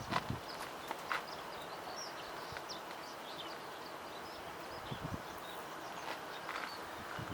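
Small birds chirping on and off over a steady outdoor background, with a few soft knocks and clicks scattered through it, the clearest right at the start, about a second in and near the end.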